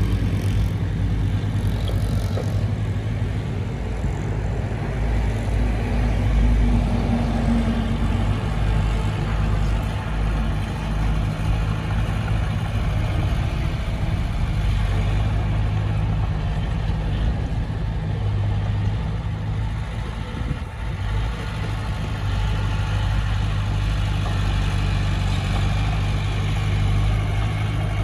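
Heavy diesel engine of earthmoving machinery running steadily, a deep hum that holds much the same pitch throughout.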